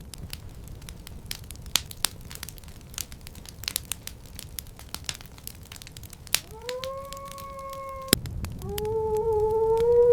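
Irregular crackling and snapping, like a fire burning, over a low rumble. Toward the end come two long howling cries: the first held steady for nearly two seconds and cut off, the second louder and wavering.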